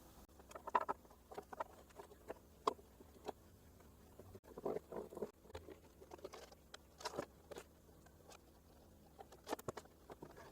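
Irregular light taps, clicks and brief scrapes of hands and tools working on a cello, with a short run of scraping or rustling about halfway through.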